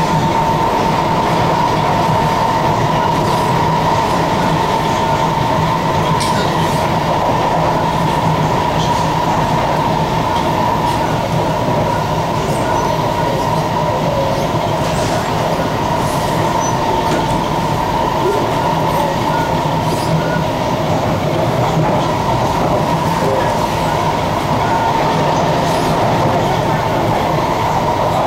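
Cabin noise of a Kawasaki-CRRC Sifang C151C electric multiple unit running at speed: a steady rumble of wheels on rail with a constant high whine and a few faint clicks.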